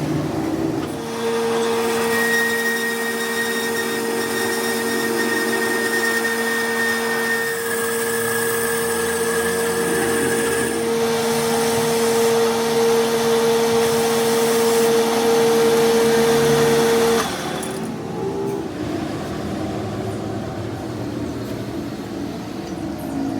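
Electric power tool motor running at a steady whine, then switched off and stopping abruptly about three-quarters of the way through.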